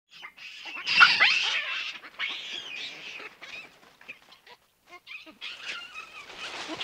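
Golden snub-nosed monkeys calling: a series of harsh, high calls with gliding pitch. They are loudest about a second in, thin out in the middle, and pick up again near the end.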